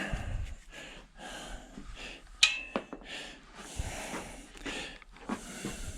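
Quiet tool and parts handling inside a metal appliance being taken apart for scrap, with one sharp metallic clink that rings briefly about two and a half seconds in and a few softer knocks.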